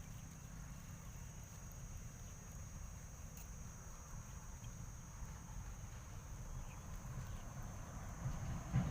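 Outdoor ambience by a pond: a steady, high-pitched insect drone over a low rumble, with a knock near the end.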